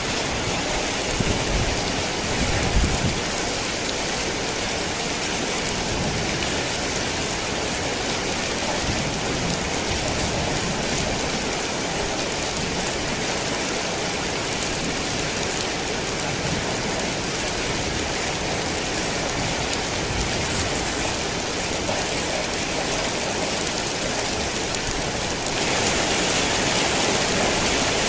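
Heavy rain falling steadily as an even hiss, with a low rumble dying away in the first few seconds. Near the end the rain abruptly gets louder.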